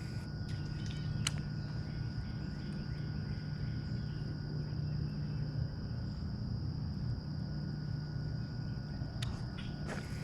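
Insects droning in a steady, even high tone, over a low steady hum, with a few light clicks about a second in and near the end.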